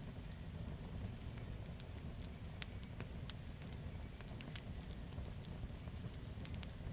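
Campfire burning: a steady low rumble of flames with frequent sharp crackles and pops from the burning wood, scattered irregularly.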